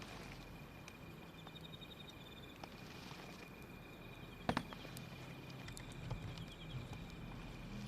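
Wood fire crackling softly with scattered small clicks and one sharp pop about halfway through, over insects chirping in short repeated trills.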